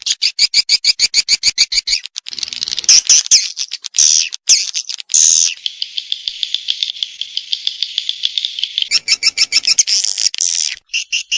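Swiftlet call recording of the kind played to lure swiftlets: rapid, high-pitched chirping trills and twittering, about ten pulses a second, the pattern shifting every few seconds between even pulsing, bursts of twitter and a fast buzzing trill.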